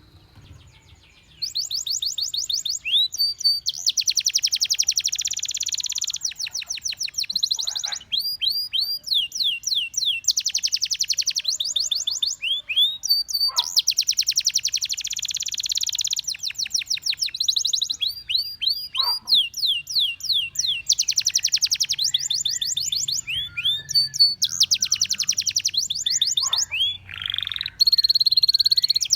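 Domestic canary singing after about a second and a half of near quiet. The song is a long run of fast trills of rapidly repeated high notes, alternating with dense rolls and short falling whistled notes.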